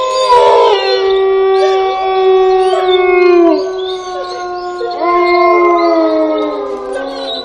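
Several canines howling together in long, overlapping howls at different pitches, one sliding down in pitch about three and a half seconds in.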